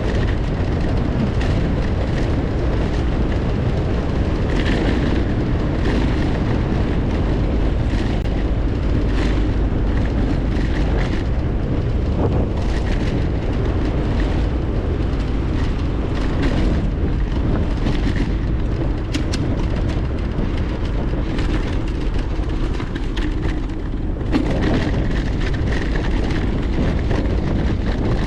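Steady wind rumble buffeting a GoPro's microphone while riding a bicycle, with tyre noise and scattered clicks and rattles from the bike over the road surface; the rumble eases briefly near the end.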